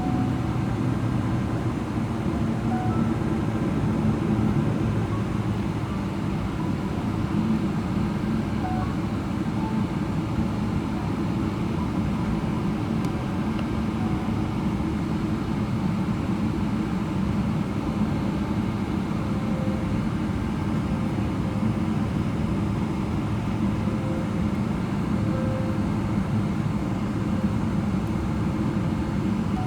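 Steady cabin noise of a Boeing 777-300ER taxiing with its GE90 engines at idle, heard from a window seat inside the cabin.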